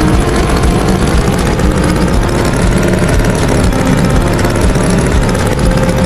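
Tractor engine running steadily, a loud engine sound effect in a cartoon soundtrack.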